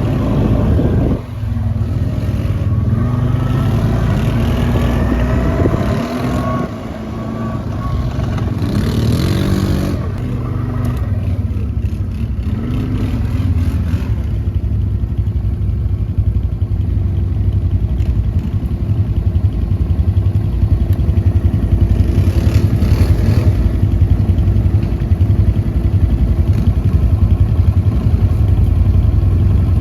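Quad bike (ATV) engine revving up and down with the throttle for about the first half, then running at a steady speed with an even note.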